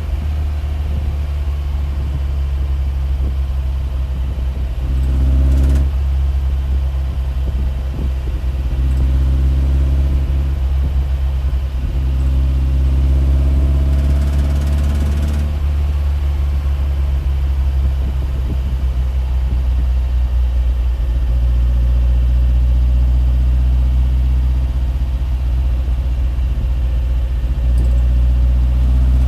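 Steady low mechanical drone, swelling and easing slightly every few seconds, with a brief hiss about halfway through.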